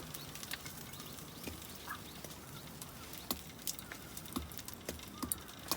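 Campfire crackling in scattered sharp pops, with a faint short call about two seconds in.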